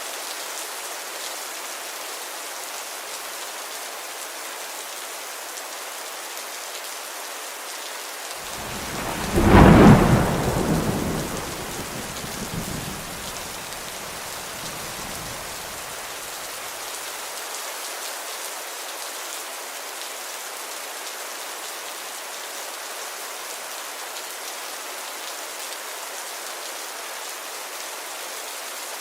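Steady rain falling, with one clap of thunder about a third of the way in that rumbles away over several seconds.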